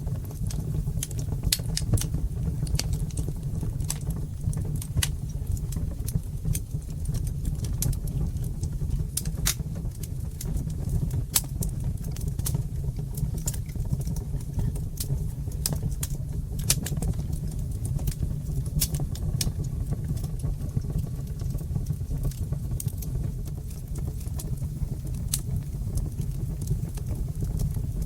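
Wood fire burning in a brick fireplace: frequent sharp, irregular crackles and pops over a steady low rumble.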